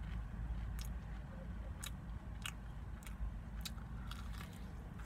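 Crunching bites and chews into a breaded fried chicken tender: a string of short, crisp crunches about every half second to a second, over a steady low rumble.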